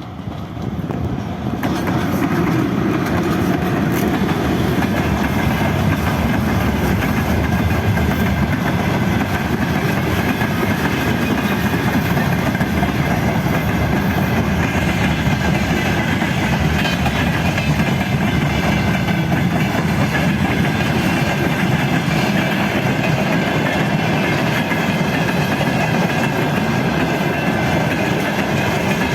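Freight train behind a VL10U electric locomotive passing close by: a steady rumble of wagons with wheels clattering over the rail joints. It swells over the first couple of seconds, then holds.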